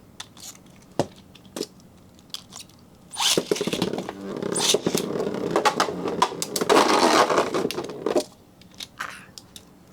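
Metal Fight Beyblade tops, one of them Meteo L-Drago, launched into a plastic stadium about three seconds in. They spin and clash with rapid clicking and clattering for about five seconds, then stop suddenly, the battle over. A few single clicks come before the launch.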